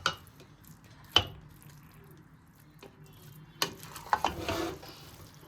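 Kitchen handling sounds: sharp clinks and knocks of dishes and utensils, at the start, about a second in and about three and a half seconds in, followed by a short stretch of scraping and rustling.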